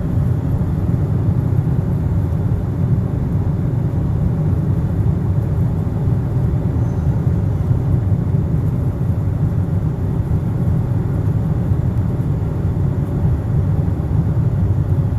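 Steady, loud rumble of cabin noise inside a Boeing 747-400 jet airliner in flight.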